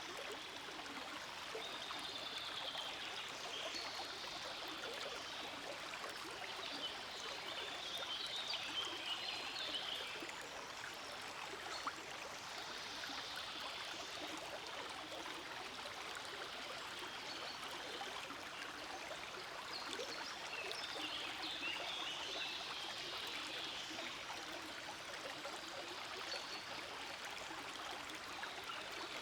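Forest stream flowing steadily, a continuous babble and trickle of running water that swells slightly a couple of times.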